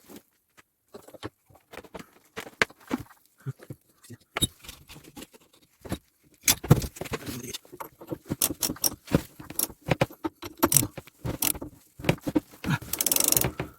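Wrench tightening a bolt at the rear suspension mount: irregular metallic clicks and clinks of tool on fastener. They grow denser and louder about six seconds in, with a short rapid rasping run near the end.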